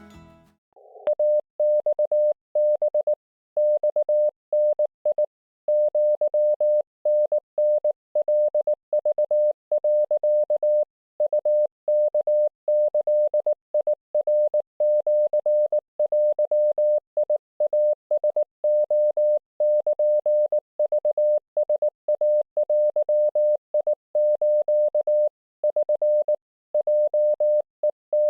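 Morse code (CW) tone from an Icom IC-705 amateur radio transceiver during a Japanese-language (wabun) Morse chat on the 7 MHz band: one pitch of about 600 Hz keyed on and off in a quick, steady stream of dots and dashes.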